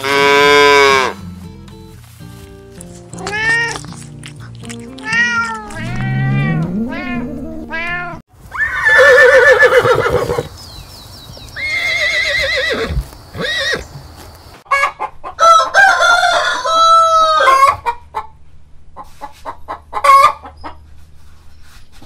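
A run of farm animal calls over light background music: a calf bawling at the start, a horse whinnying in the middle, then a rooster and hen clucking in a quick string of short calls.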